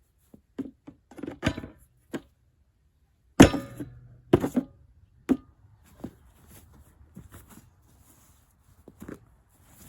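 A scrap water heater's metal tank being struck, several separate blows with short ringing tails; the hardest comes about three and a half seconds in, followed by two more within two seconds. The blows do not break into the tank.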